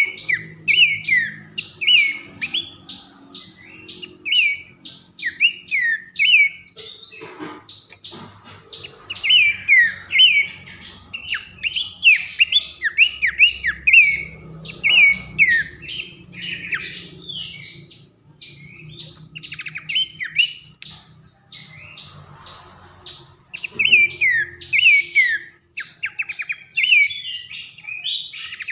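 Horsfield's babbler (pelanduk semak) singing loud, rapidly repeated falling whistles, mixed with quick sharp high chips, in bursts with brief pauses.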